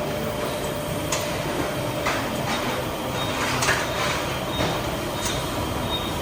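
Steady mechanical rumble with a few sharp clicks scattered through it.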